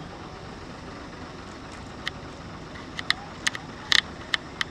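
A steady background rush, with a run of about seven sharp, irregular clicks over the second half.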